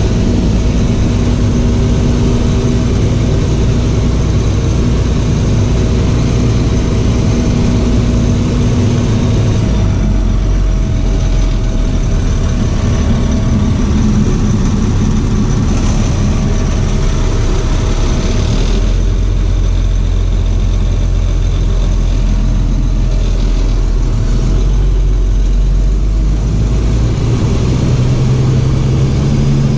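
Box truck chassis, its box removed, driving with its engine running steadily; the engine note shifts in pitch a few times, around 10, 19 and 27 seconds in.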